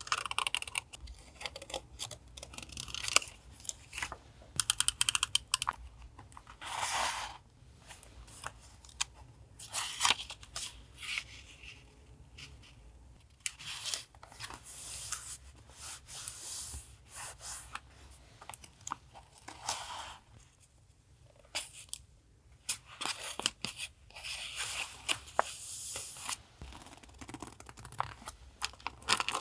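Paper being handled for a journal collage: irregular rustling and tearing in short bursts with sharp clicks, including a quick run of clicks about five seconds in.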